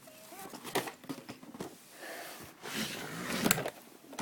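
Cardboard toy box being opened and handled: irregular rustling and scraping, with a few sharp clicks and knocks, the loudest about three and a half seconds in.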